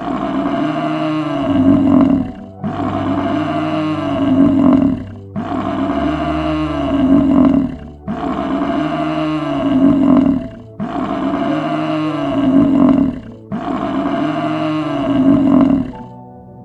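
A large animal's roar, the same call repeated six times at even spacing, each lasting about two and a half seconds, with soft music underneath.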